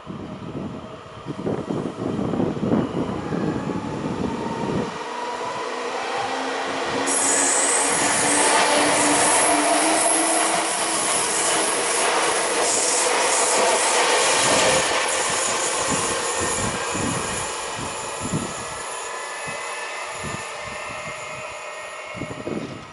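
Electric multiple-unit passenger train running past along the platform track: motor whine and wheel-on-rail noise build up, with high-pitched wheel noise loudest from about seven to fifteen seconds in, then fade as the train runs away down the line.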